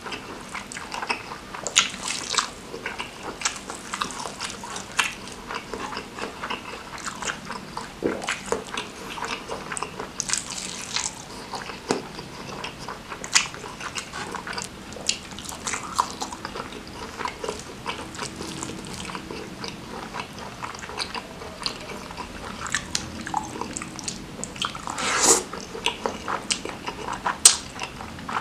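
Close-up eating sounds: wet chewing and lip smacks from a mouthful of rice mixed with spicy Samyang noodles and curry, eaten by hand. Irregular short clicky mouth noises throughout, with a louder wet burst near the end.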